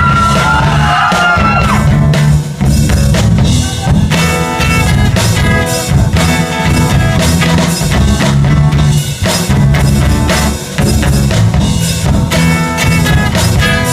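Band playing a pop-rock song loudly, with drum kit, bass and electric guitar keeping a steady beat.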